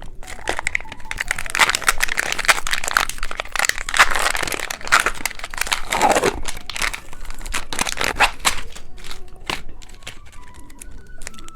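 Plastic candy packaging crinkling and tearing as it is handled and opened, with dense crackling strongest through the first two-thirds and thinning out near the end.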